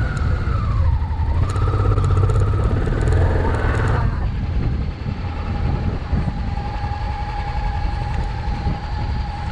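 Adventure-enduro motorcycle engine revving up and down as the bike is worked out of deep sand, then running at a steady pitch for the last few seconds.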